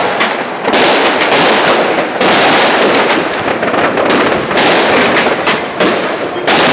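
Dense barrage of fireworks and firecrackers going off across a city, bangs and crackles overlapping without a break, swelling louder every second or two.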